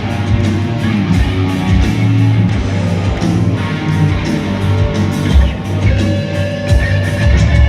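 Rock band playing an instrumental passage: electric guitar over bass guitar and drums, with a steady driving beat.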